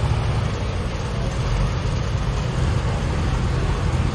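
Pulling tractor's diesel engine running with a steady deep rumble.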